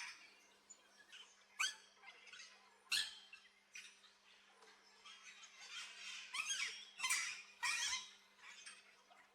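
Aviary birds calling: a run of short, sharp squawks and squeaks, with the loudest ones about three seconds in and a cluster near the end.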